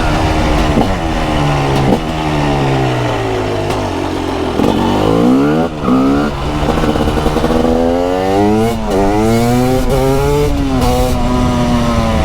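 TM SMR 300 two-stroke single-cylinder supermoto engine, raw exhaust sound. The revs fall as it slows for the first few seconds. From about five seconds in it accelerates hard, the pitch climbing and dropping back at each upshift several times.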